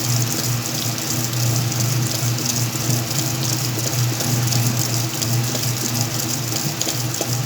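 Whirlpool washing machine running with a load of blankets: a steady rush of water over a constant low hum.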